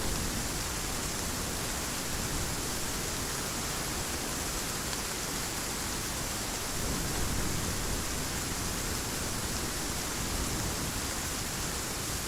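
Heavy rain falling steadily, a dense even hiss that swells slightly now and then.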